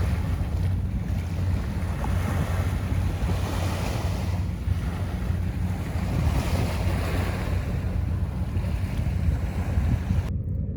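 Sea surf washing on the shore in slow swells, under a heavy low rumble of wind buffeting the microphone.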